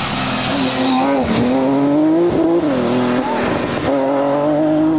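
Rally car engine driven hard, its pitch climbing and falling back several times as the driver works the throttle and gears.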